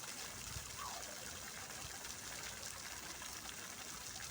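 Fountain water splashing and falling steadily, an even hiss with no breaks.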